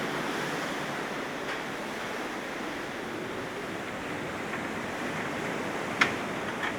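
Steady rushing noise with no tones in it, with a sharp click about six seconds in.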